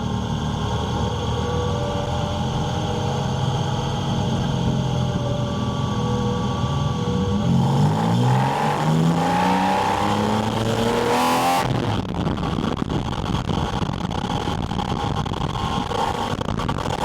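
Porsche 718 Spyder RS's 4.0-litre flat-six, heard through its air intake: running steadily, then about halfway through the revs climb steeply under hard acceleration for about four seconds and cut off suddenly. After that a rushing wind and intake noise takes over.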